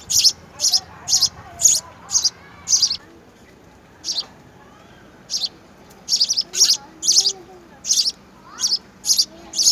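Small bird giving a quick series of short, high chirps, about two a second, with a break of a second or two partway through.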